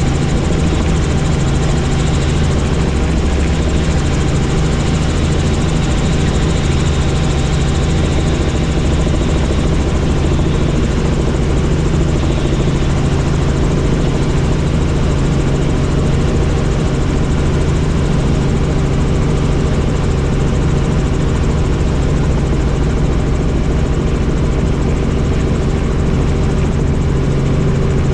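Helicopter in flight: steady drone of the engine and rotor, with a low rumble and several constant tones that hold even throughout.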